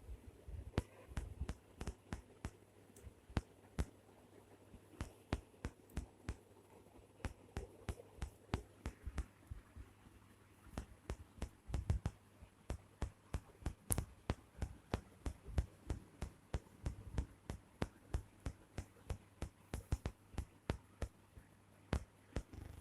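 Irregular sharp clicks and soft knocks, several a second, over a faint steady low hum.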